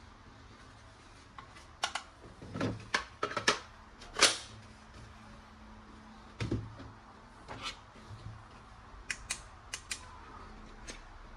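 Scattered clicks and knocks of hard plastic toy parts being handled, the loudest about four seconds in, a duller thump a little later, and a quick run of four sharp clicks near the end.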